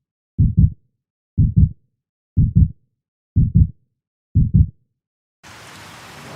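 Heartbeat sound effect: five double low thumps, lub-dub, about one a second, against silence. A steady hiss of rain fades in near the end.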